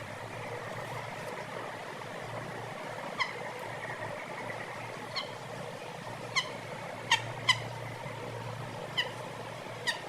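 Chickens calling: seven short, sharp, slightly falling calls at irregular spacing, over a steady background hiss.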